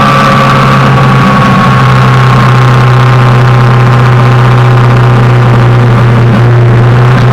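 Suzuki GSX-R600 inline-four engine running at steady, moderate revs: a loud, even drone that holds nearly the same pitch throughout.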